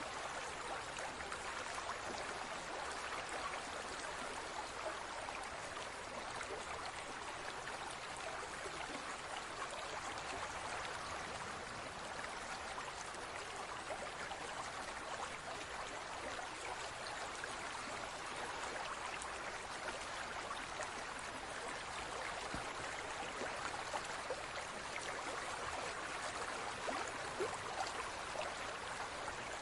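Aquarium water trickling and bubbling steadily, a constant even hiss of moving water with small crackles.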